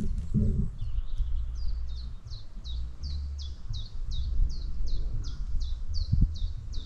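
A bird singing a long, even series of short high notes, each sliding down in pitch, about three a second, starting about a second in.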